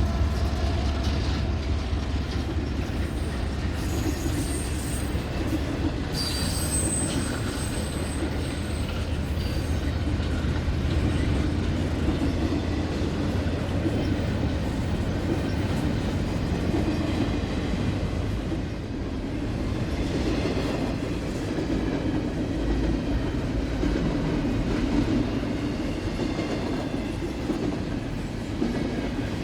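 Freight train rolling past: a steady rumble of railcar wheels on the rails, with some wheel squeal.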